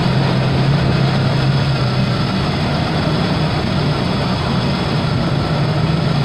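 Ford Bronco II's 2.9-litre V6 idling steadily. The engine has overheated and is pushing bubbles into its coolant.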